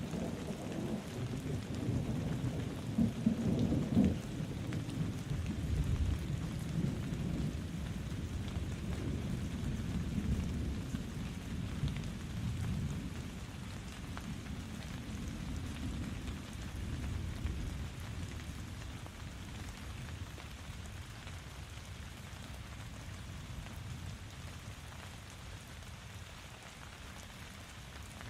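Steady rain falling, with a deep roll of thunder rumbling loudest in the first few seconds and slowly dying away.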